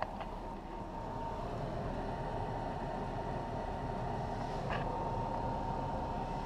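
RV propane furnace blower running steadily, a fan drone with a constant thin whine in it, growing a little louder over the first couple of seconds. There are two faint clicks, one at the start and one about four and a half seconds in.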